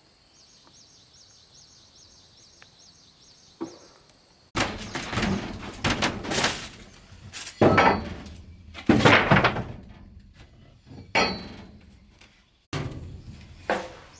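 A faint high chirp repeating about two or three times a second, then, after a sudden cut, a run of loud thumps and knocks with several heavy strikes.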